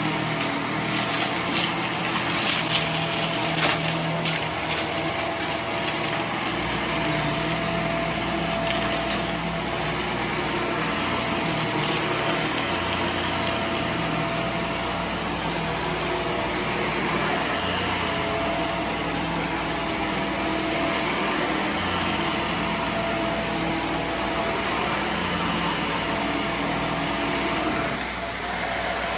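Vacuum cleaner running steadily, with a steady whine over its rushing airflow. In the first few seconds there are quick rattling clicks, typical of debris being sucked up.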